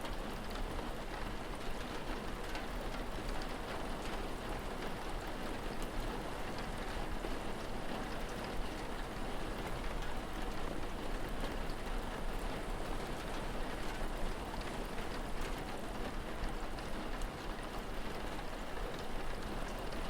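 Steady rain falling, with scattered fine drop ticks and a low, even rumble beneath.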